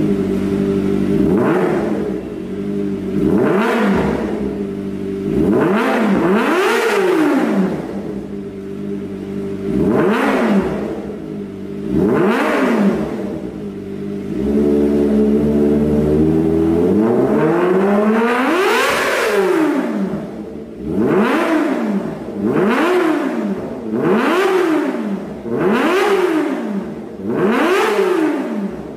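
Kawasaki Ninja ZX250R engine through an aftermarket exhaust, blipped from idle over and over: about a dozen quick revs that rise and fall back to idle, with one longer, higher rev a little past halfway.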